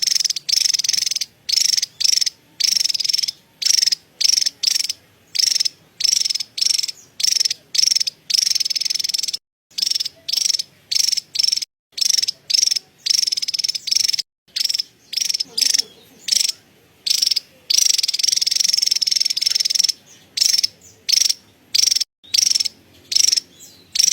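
Javan tesia giving its high-pitched, rapid chattering call (cerecetan), in short bursts separated by brief gaps, with a few longer unbroken runs.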